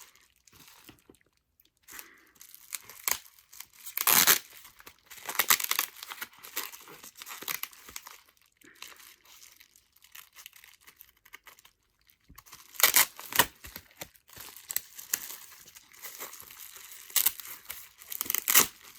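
Packaging being torn open and crinkled by hand: wrapping ripped and rustled in irregular bursts. The loudest rips come about four seconds in, around thirteen seconds and near the end.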